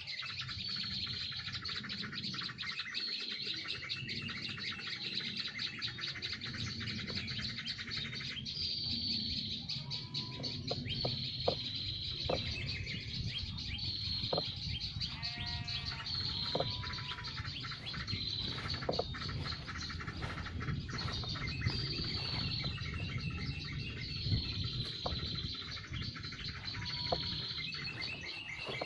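Small birds chirping and calling continuously, with a short high falling note repeated every second or two and a few lower whistles mixed in.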